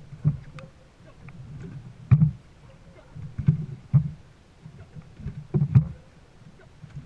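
Dragon boat crew paddling: paddles dig into the water and knock against the hull together, one stroke about every two seconds, over a steady low rumble of water.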